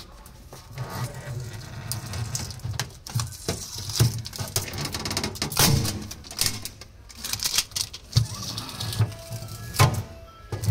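Irregular clicks and knocks of a refrigerator's plastic vegetable tray and shelves being handled, over a low background hum.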